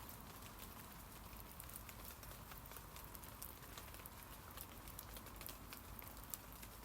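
Rain falling on tree leaves: a soft, even hiss of rain dotted with many small, irregular drop taps.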